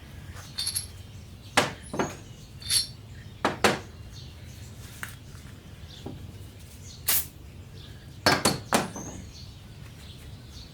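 Metal engine parts clinking and tapping as they are handled, likely the main cap bolts and caps going onto the block. About a dozen short, sharp clinks come at irregular intervals, a few in quick pairs, over a faint low hum.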